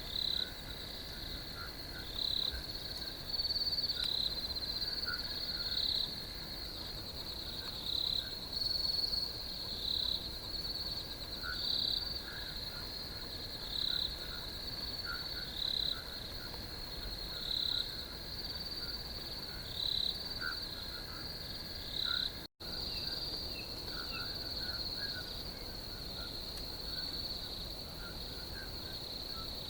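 Crickets trilling steadily, with louder chirps pulsing in every second or two and small lower chirps scattered among them. The sound cuts out for an instant about three-quarters of the way through; after that the louder chirps stop and only the steady trill goes on.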